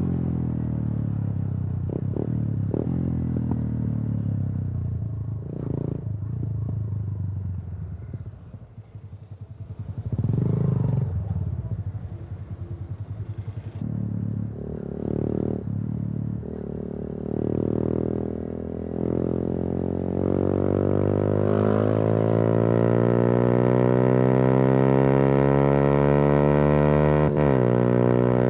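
Yamaha YBR 125G's single-cylinder four-stroke engine through an Akrapovič exhaust, heard from the bike while riding. Revs fall away on a closed throttle, pick up in a few short blips, then climb in a long steady rise, with a quick dip and recovery near the end as it shifts gear.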